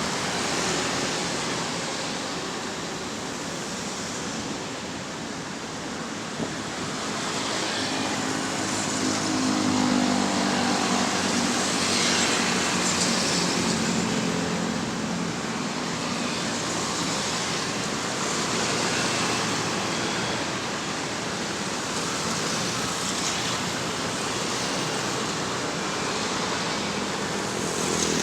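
An excavator's diesel engine and machinery running at work, the sound swelling and easing. The engine note grows stronger about a third of the way in.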